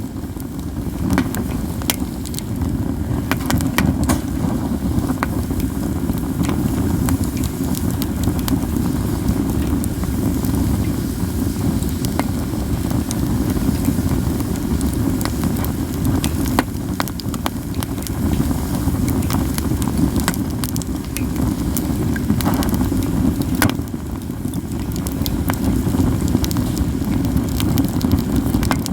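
Katsura-wood campfire crackling steadily, with frequent sharp pops and snaps over a constant low rumble.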